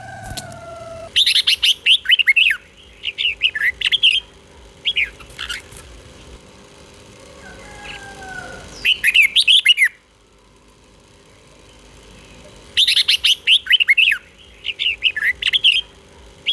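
Red-whiskered bulbul singing: clusters of quick, bright chirping phrases, several groups with short pauses between. It sings the elaborate 'double' (bêl) phrasing that Thai keepers use as a model song for training caged bulbuls.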